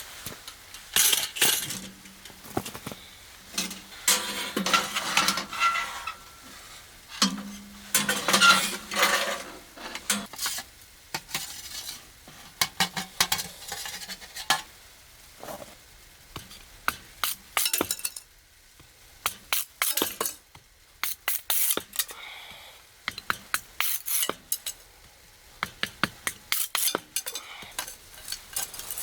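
Camp cookware and utensils handled: irregular clinks, knocks and clatters of pots, lids and cutlery, with some rustling between them.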